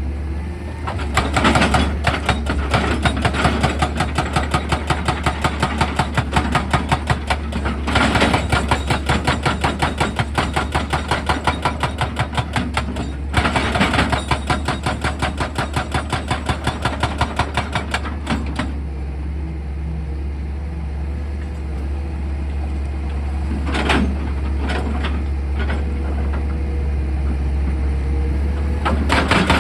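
An excavator's drilling attachment hammering rock in rapid, evenly spaced blows over a steady engine hum. The blows come in three runs of about five seconds each, stop for about ten seconds apart from a few single knocks, then start again near the end.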